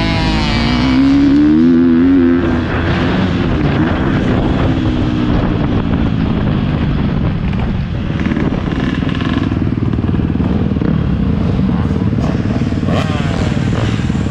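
Motocross dirt bike engine under throttle, its pitch rising to a loud peak about two seconds in, then dropping back and running on steadily.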